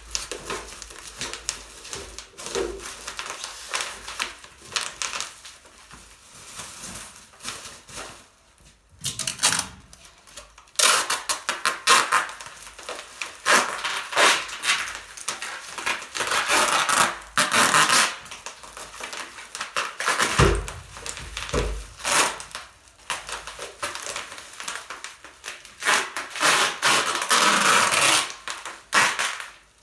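Irregular clattering and rustling in uneven bursts, like objects being handled and moved about, with no motor running.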